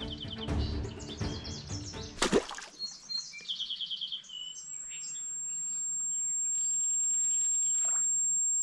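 Small birds chirping in short rapid trills over background music, which cuts off with a sharp hit about two and a half seconds in. A thin, steady high-pitched tone then fades in and holds.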